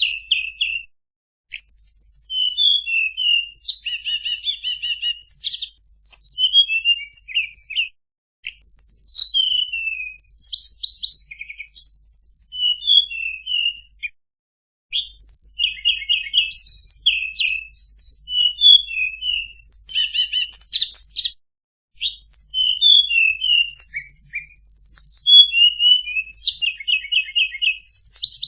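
A tledekan songbird singing a rapid, varied song of high chirps, buzzy trills and down-slurred whistles, in phrases broken by brief pauses.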